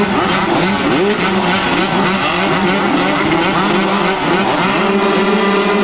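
Several motocross bikes revving hard at once, their engine notes rising and falling over one another as riders work the throttle and shift, with one engine held at a steady pitch from about three-quarters of the way in.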